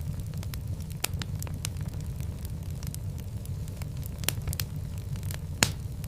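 Fire crackling in a fireplace: scattered sharp pops and snaps over a steady low rumble, with one loud pop about five and a half seconds in.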